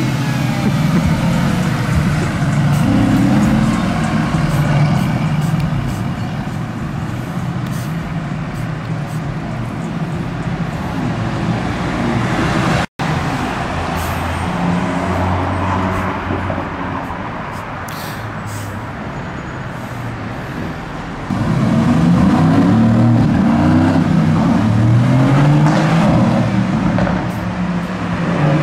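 Car engines running in street traffic, their pitch moving up and down as cars idle and pull away. The sound cuts out for an instant about 13 seconds in, and the engine noise gets louder about 21 seconds in.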